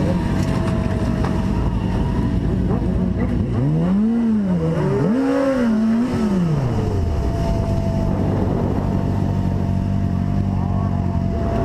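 A motor vehicle engine running steadily, its pitch rising and falling twice in the middle as it revs.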